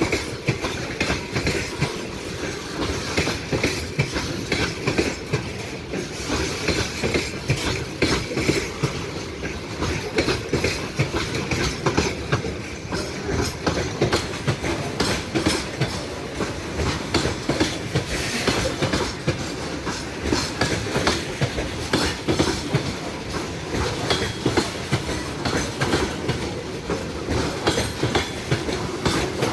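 A train rolling past, its wheels clattering steadily over the rail joints in a dense, even rhythm.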